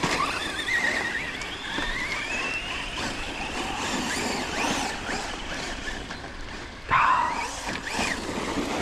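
Electric motors of radio-controlled trucks whining, rising and falling in pitch with the throttle, over a steady rushing noise. About seven seconds in, a louder whine starts suddenly close by and drops in pitch.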